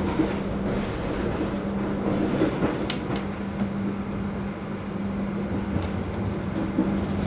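Inside a moving stainless-steel passenger coach: a steady rumble of the wheels on the rails, with a steady low hum running under it and a few faint clicks about three seconds in.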